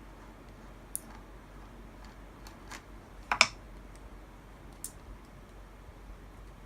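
A few light clicks and one louder double knock about three and a half seconds in, as parts and tools are handled during engine assembly.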